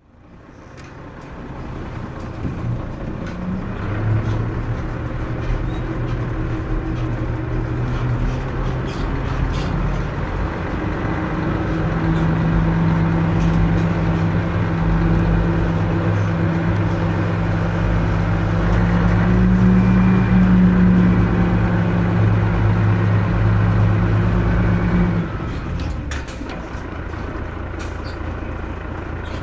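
Mitsubishi Fuso Aero Star (KC-MP317M) city bus engine running under way, heard from on board. It pulls with a steady, gradually louder engine note, then drops away sharply about 25 seconds in as the throttle comes off, followed by a few light clicks.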